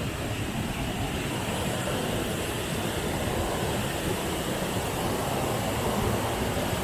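Waterfall rushing close by: a steady, very loud roar of falling water.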